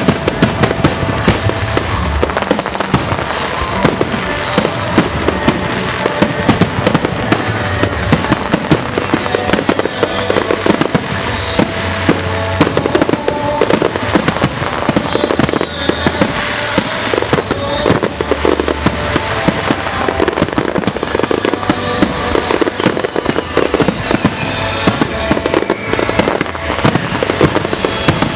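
A dense barrage of aerial firework shells bursting, many bangs a second with crackling, kept up without a break, over music.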